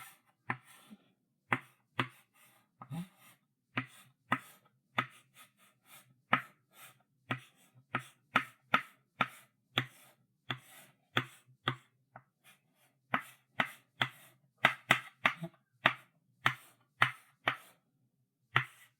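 Chalk writing on a blackboard: a quick, uneven stream of short, sharp taps and strokes, about two a second, with a couple of brief pauses.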